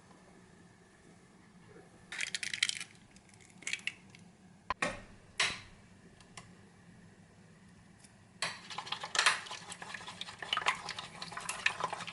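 Kitchen utensils and dishes clinking and clattering in short, irregular bursts, with a busier stretch of clatter in the last few seconds.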